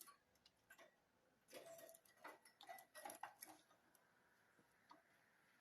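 Faint budgerigar chatter: short scratchy chirps and clicks, bunched together between about one and a half and three and a half seconds in, with a few single chirps around them.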